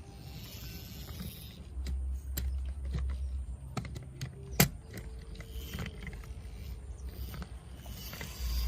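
Toy trucks being handled: scattered clicks and knocks with one sharp click about halfway through, and low rumbles about two seconds in and again at the end.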